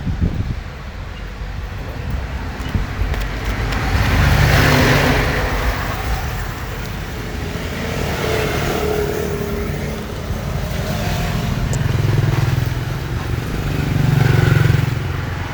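Road traffic: vehicle engines passing over a steady low rumble, growing louder and fading away a few times.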